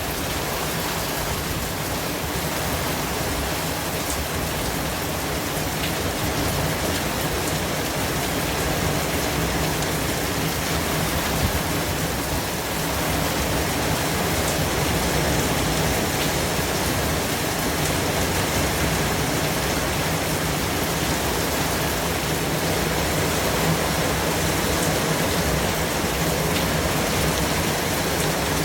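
Steady white noise: an even, unbroken hiss spread across low and high pitches alike, with no separate sounds in it.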